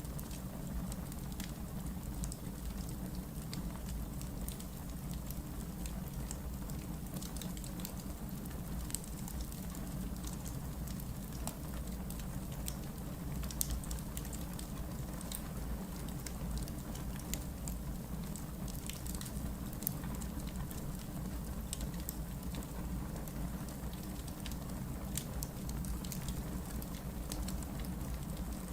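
Wood logs burning in a fireplace: a steady low rumble of flames with irregular sharp crackles and pops, a few of them louder than the rest.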